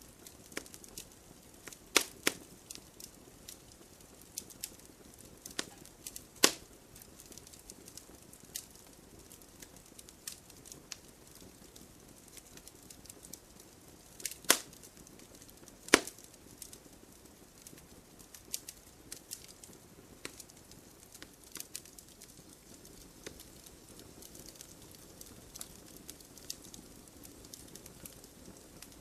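Wood fire crackling: scattered small snaps over a faint hiss, with a few louder pops about 2, 6, 14 and 16 seconds in.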